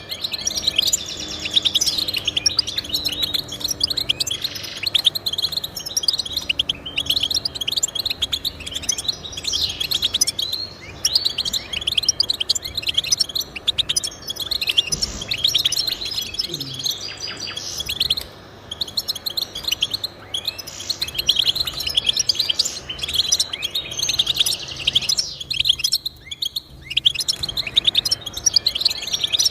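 Goldfinch singing a long, rapid twittering song of quick chirps and trills, with one short break near the end.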